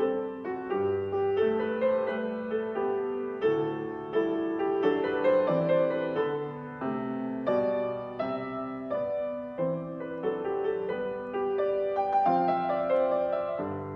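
Solo piano playing a Christmas carol arrangement, a steady flow of struck notes and chords.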